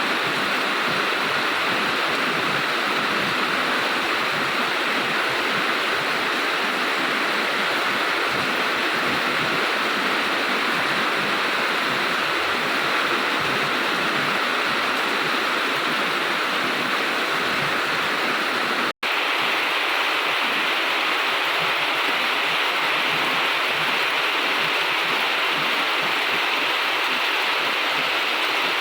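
Steady heavy rain falling, a dense even hiss of water, cutting out for an instant about two-thirds of the way through.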